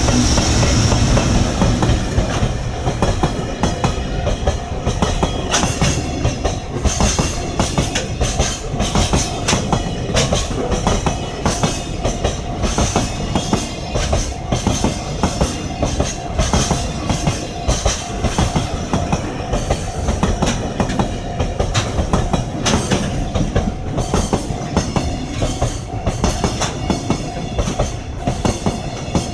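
Freight train running past, its wagons' wheels clacking steadily over the rail joints; loudest in the first couple of seconds.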